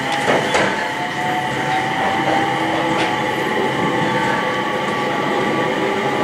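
Electric train running, heard from inside the passenger car: steady rail rumble and hiss with a whine that climbs slowly in pitch. A few wheel knocks over the rails come near the start and about three seconds in.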